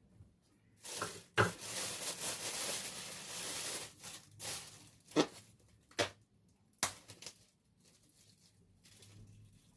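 Packaging rustling and tearing for about three seconds, then a few separate sharp knocks and clicks as things are handled.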